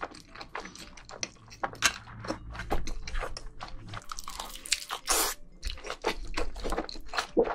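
Close-miked eating sounds: chewing of black bean noodles with many small mouth clicks, and a bite into a thick block of ham about four seconds in, followed by more chewing.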